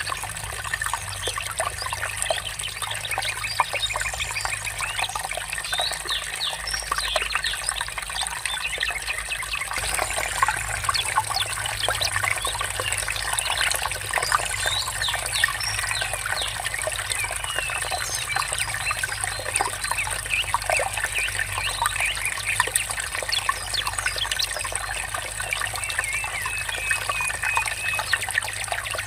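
Water trickling steadily, with birds chirping now and then.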